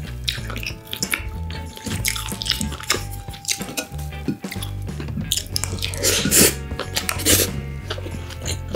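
Close-miked wet chewing and mouth clicks of someone eating kimchi fried rice, with a couple of louder scraping sounds between about six and seven and a half seconds in as a wooden spoon scoops rice from a ceramic bowl.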